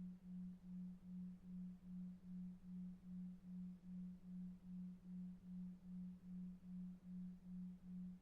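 Low, soft electronic pure tone pulsing evenly about two and a half times a second: a 2.5 Hz delta-wave sleep tone.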